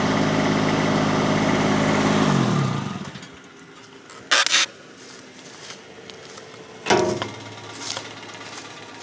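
Rippa RS06 mini skid steer's Kubota diesel engine running steadily, then winding down in pitch and shutting off about two and a half seconds in. After that it is much quieter, with two short sharp knocks.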